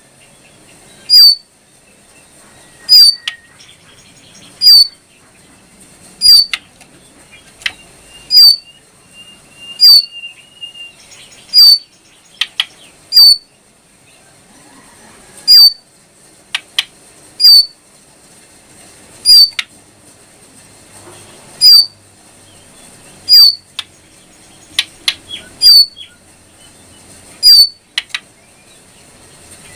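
Jongkangan coklat songbird calling: loud, very short, high sharp chirps repeated about every one and a half to two seconds, with a few fainter notes and a brief thin whistle between them.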